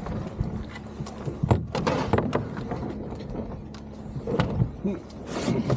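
A canoe landing at shore: a series of sharp knocks and clunks from the hull and paddles, a cluster about a second and a half in and another near the end.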